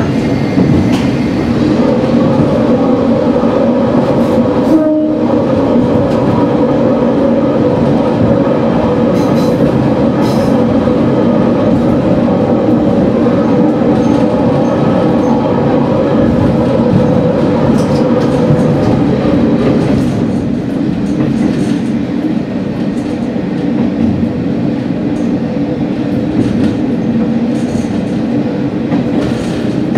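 Diesel railcar running along the track, heard from inside the cab: a steady engine drone over wheel-and-rail noise. There is a momentary dropout about five seconds in. The engine note eases off about two-thirds of the way through as the train approaches a station.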